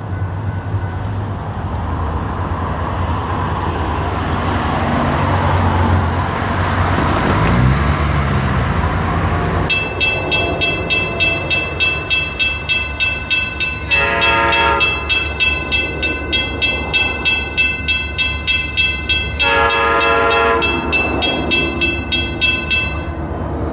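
Diesel locomotive passing with a low engine rumble. About ten seconds in, a bell starts ringing rapidly, about three strokes a second, and keeps on almost to the end. The train horn sounds two blasts over it, each a little over a second.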